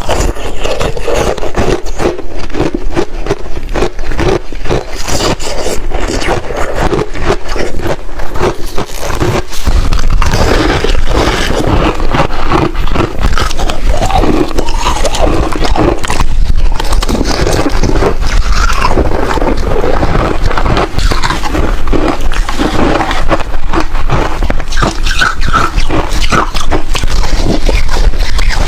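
Close-miked freezer frost being scraped and crunched, a dense run of irregular crackles. A low rumble joins about ten seconds in.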